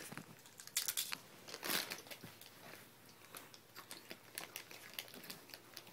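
Someone chewing crunchy chips close to the microphone: irregular crunches and crackles, loudest about one and two seconds in.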